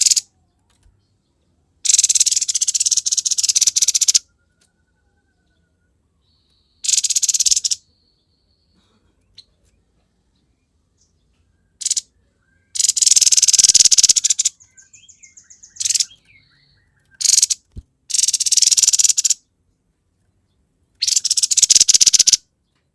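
Grey-headed babbler (tepus kepala abu) giving harsh, buzzy, rattling 'konslet' calls in bursts of a second or two, about eight in a row with short pauses between. A faint, thin trill comes in about 15 seconds in.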